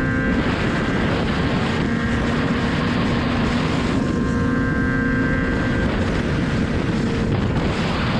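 BMW S1000RR inline-four engine running at steady highway cruising speed. Heavy wind rush over the microphone covers it, and the engine's steady tone comes and goes beneath the wind.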